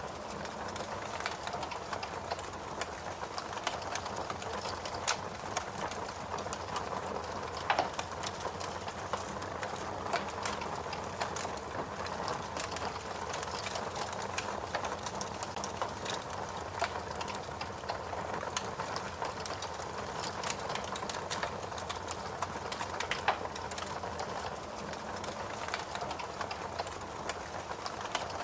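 Fire crackling: a steady hiss of burning with frequent small pops and snaps, and a couple of sharper, louder pops.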